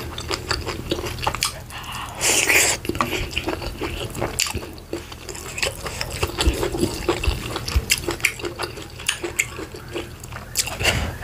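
Close-miked wet eating sounds of garri fufu and leafy vegetable soup eaten by hand: a run of moist chewing clicks and lip smacks, with a louder wet squelch about two seconds in.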